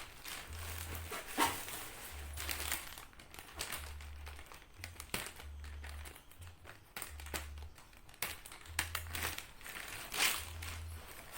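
Crinkling and rustling handling sounds with scattered light clicks, irregular throughout.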